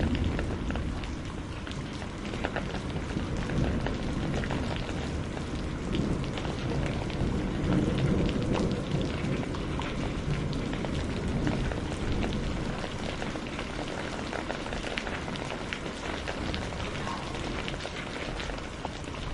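Steady heavy rain, many drops falling on surfaces, with a low rumble of distant thunder underneath that swells around the middle.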